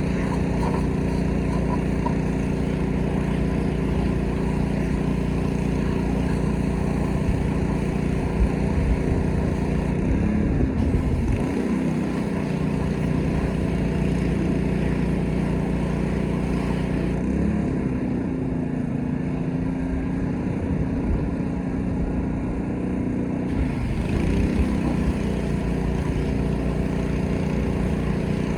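Pressure washer's small gasoline engine running steadily, its pitch wavering briefly about ten seconds in and again near the end.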